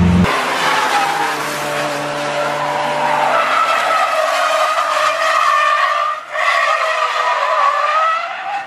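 Car tyres squealing in a long skid: a wavering, sustained squeal with engine noise under it, briefly dropping out about six seconds in.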